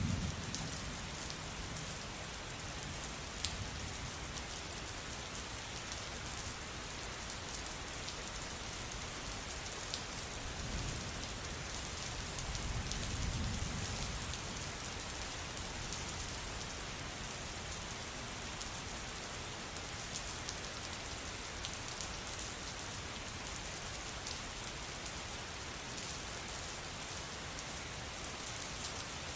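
Steady rain falling, with individual drops ticking sharply on a surface. A soft low rumble swells about halfway through.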